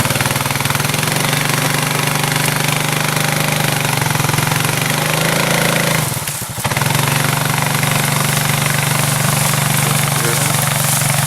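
Motor vehicle engine running steadily, heard close up, with a brief dip in level about six and a half seconds in.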